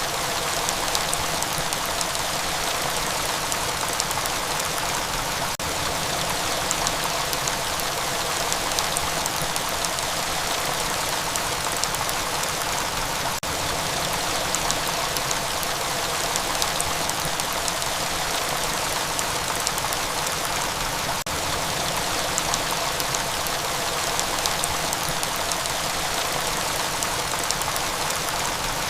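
Steady heavy rain, a dense even hiss with the patter of individual drops ticking through it, broken by a very brief dip three times, about eight seconds apart.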